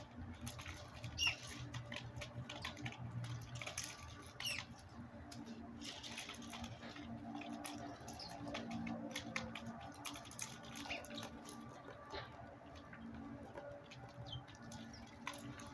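Backyard birds giving brief high, down-sliding chirps over frequent small ticks and taps, with a faint low steady hum beneath.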